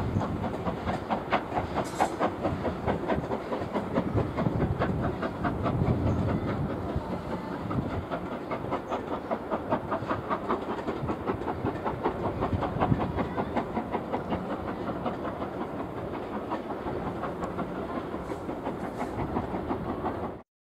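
Steam-hauled train of coaches behind LMS Stanier Class 5 4-6-0 45231 rolling away over pointwork: a fast, continuous clickety-clack of wheels over rail joints and crossings above a steady rumble, with the locomotive's steam and exhaust heard faintly ahead. The sound cuts off suddenly near the end.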